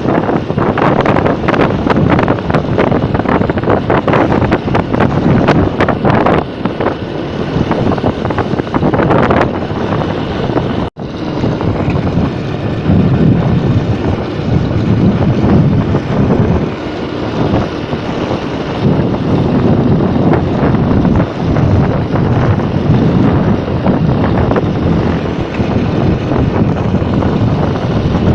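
Motorcycle on the move: wind buffeting the microphone over the engine and road noise. The buffeting is rough and crackling at first and grows steadier after a brief dropout about eleven seconds in.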